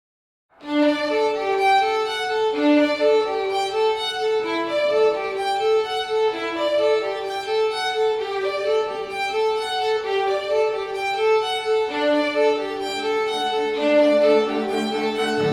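Bowed violin music: two parts move note by note in a melody that starts about half a second in. A lower held note joins near the end.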